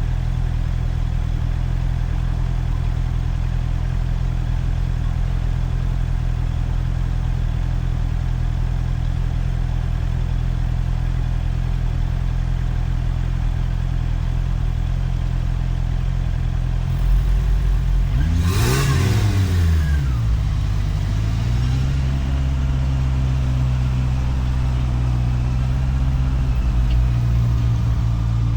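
Motorcycle engine idling steadily, then about two-thirds of the way through it pulls away: the pitch climbs, drops at a gear change and climbs again as it accelerates.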